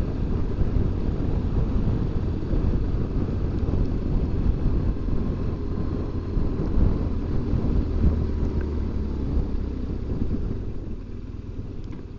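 BMW R1200GS Adventure's boxer-twin engine running steadily under way at road speed, with a low rumble. It eases off near the end. The rider says it is sounding good, running well and pulling nicely.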